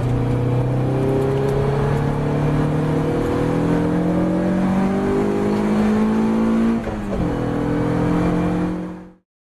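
Ginetta G40 race car engine under hard acceleration, its pitch climbing steadily for about seven seconds, then an upshift and the engine pulling on again. The sound fades out quickly near the end.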